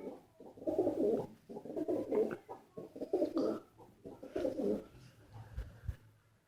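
Pigeons cooing: four low, rolling coos in quick succession, each about a second long.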